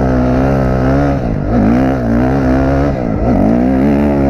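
Dirt bike engine revving hard under riding, its pitch dropping and climbing again twice.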